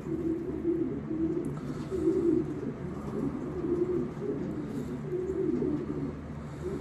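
Racing pigeons cooing in a loft: low, wavering coos repeating throughout.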